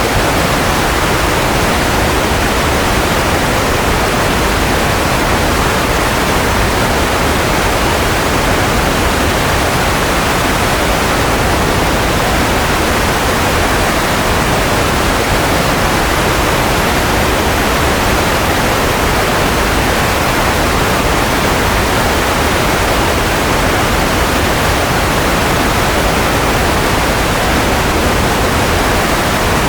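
Steady white noise for baby sleep: an even, unchanging hiss with no tones or breaks, its highs a little softer than its middle.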